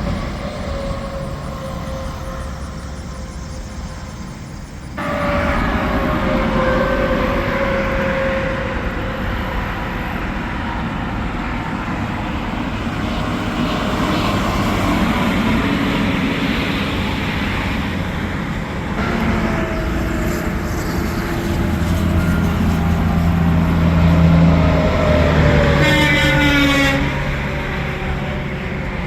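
Semi trucks and other traffic passing on an interstate highway: steady tyre and engine noise that swells and fades as each vehicle goes by, with tones dropping in pitch as they pass. The level jumps up suddenly about five seconds in, and a steady low engine drone joins near the end.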